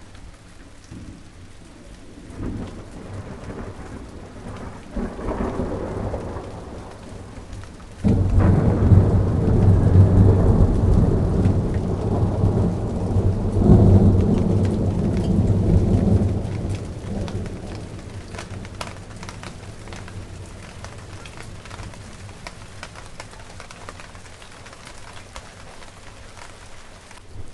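Steady rain falling with fine drop patter, and a long low roll of thunder that breaks in suddenly about eight seconds in, swells again a few seconds later and rumbles away over the next several seconds.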